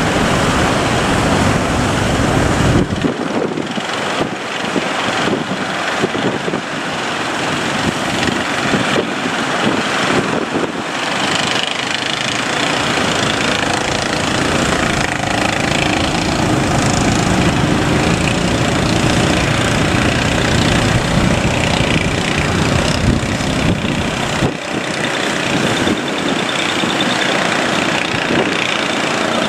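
Fishing boat engine running steadily, over a continuous wash of surf and wind.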